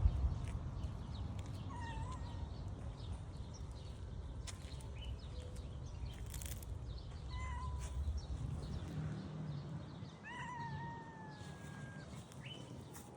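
A cat meowing three times, the third meow, about ten seconds in, longer and trailing slightly down in pitch. A low rumbling background noise runs underneath.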